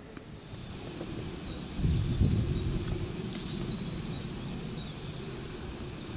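Songbirds singing in quick, high chirps and short trills over a steady low rumble, with a louder low rumble about two seconds in.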